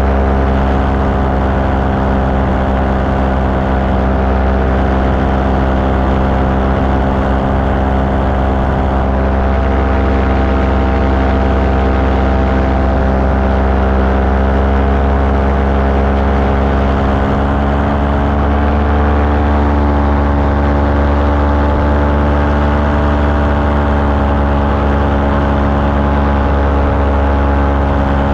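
The engine of a small recreational aircraft running steadily in flight. Its pitch wavers slightly about two-thirds of the way through.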